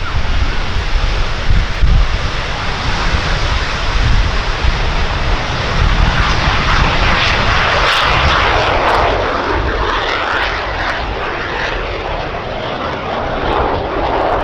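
Jet noise from a pair of BAC 167 Strikemasters and their Rolls-Royce Viper turbojets, a loud steady rush that swells to a peak about six seconds in with faint shifting whines, then eases off.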